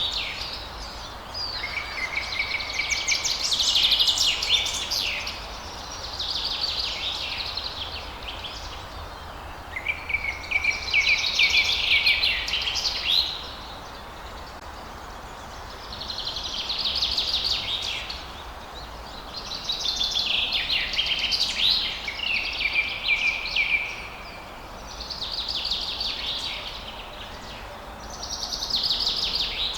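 A songbird singing, repeating phrases of two to four seconds of rapid high trills and chirps with short pauses between them, over a faint steady background hiss and low hum.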